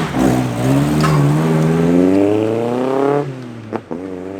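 A car engine accelerating hard: its pitch climbs steadily for about three seconds, drops at a gear change with a sharp crack, then climbs again.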